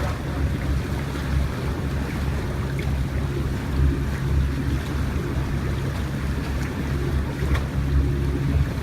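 Wind buffeting the microphone and water washing around a sailboat, over a steady low hum.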